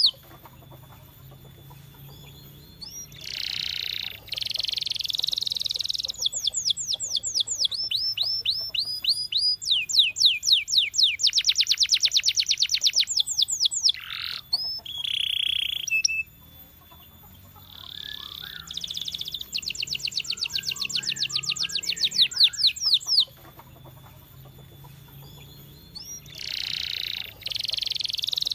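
Domestic canary singing: high phrases of rapid repeated notes and fast trills and rolls, broken by short pauses.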